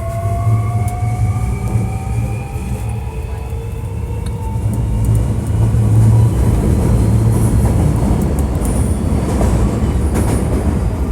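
Running sound inside a Hankyu 1300 series train car, a unit labelled as an odd-sounding car. The traction motors whine in several tones that slowly rise in pitch as it gathers speed, then fade about four seconds in. After that comes the louder, steady rumble of wheels on rail, with a few clicks near the end.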